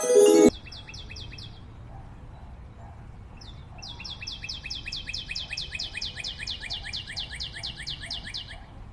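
Music cuts off about half a second in. A bird then calls in fast runs of repeated chirps, about six a second: a short run first, then a longer one lasting several seconds.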